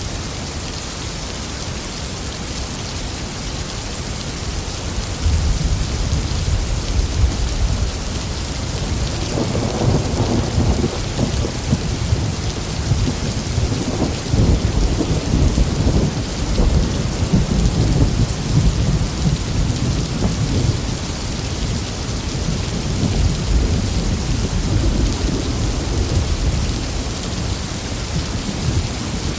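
Steady heavy rain with rolling thunder: a low rumble builds about five seconds in, grows stronger a few seconds later and keeps rolling, swelling several times.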